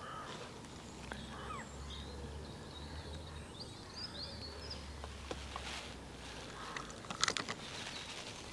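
Quiet lakeside evening ambience: small birds chirping and a low steady hum, then a short cluster of knocks and rustles about seven seconds in as a float-fishing rod is handled and raised for a cast.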